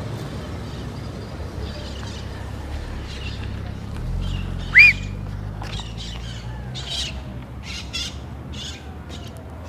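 Scania truck's diesel engine idling with a steady low hum that swells slightly about four seconds in, while birds chirp over it. One loud, short, arched chirp about halfway through is the loudest sound.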